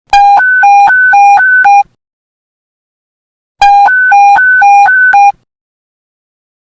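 Police radio panic-button emergency alert: an electronic two-tone beep that switches rapidly between a low and a high pitch, sounded in two bursts of under two seconds each, a couple of seconds apart.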